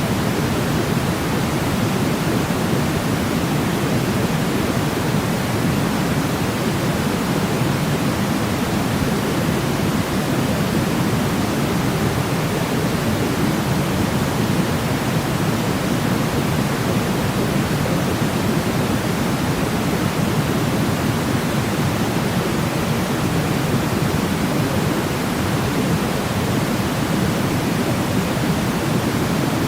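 Sleep white noise: a steady, unchanging rushing hiss, fuller and deeper in the low range than in the highs.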